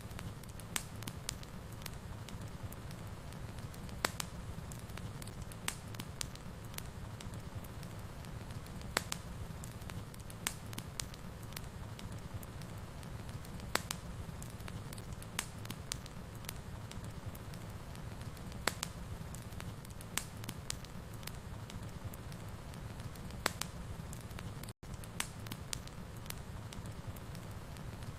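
Wood fire in a fireplace burning steadily with a low rumble, popping and crackling at irregular moments. The sound cuts out for an instant near the end.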